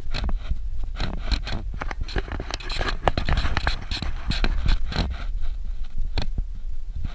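Suzuki Jimny driving over a rough dirt road, heard from inside: a steady low rumble with many irregular knocks and rattles as it takes the bumps.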